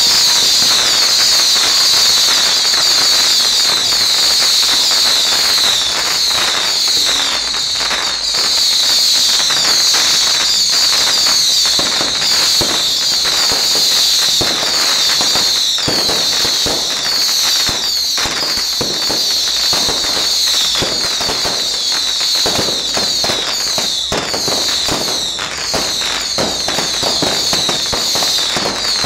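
A fireworks display going off in a dense, continuous barrage of crackles and bangs for the whole stretch, with a steady high-pitched whine running above them.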